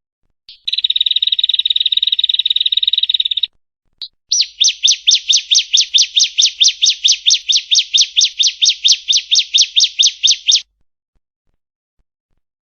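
Female bar-winged prinia (ciblek) singing: a fast buzzy trill for about three seconds, then after a short break a long run of sharp, quickly repeated notes, about six a second, each falling in pitch, stopping abruptly near the end.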